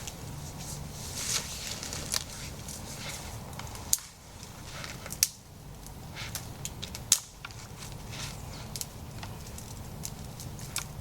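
Wood snapping and crackling: scattered small crackles with three sharper snaps about four, five and seven seconds in, over a steady low rumble.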